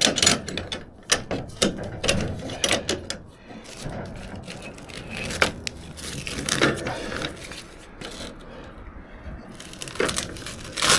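Steel reinforcing mesh being handled: irregular clanks, knocks and scrapes, busiest in the first few seconds, then quieter handling noise.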